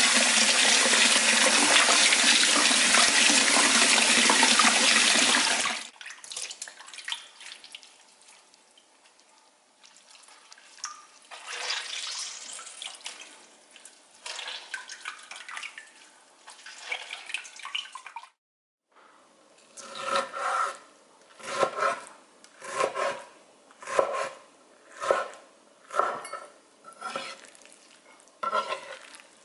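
Kitchen tap water running for about six seconds, then shut off suddenly. Quieter kitchen handling sounds follow, and near the end a run of about nine short sounds at roughly one a second.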